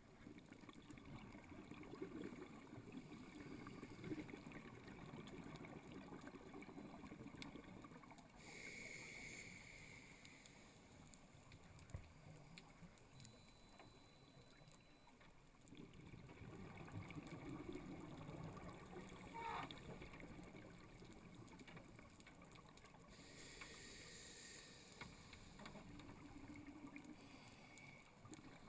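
Scuba diver breathing through a regulator, muffled inside an underwater camera housing. There are two short hissing inhalations, about nine and twenty-three seconds in, between long bubbling exhalations.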